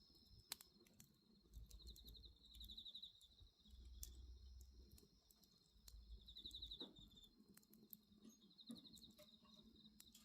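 Faint crickets chirping in short pulsed trills over a steady high insect drone, with sharp pops from a crackling bonfire now and then.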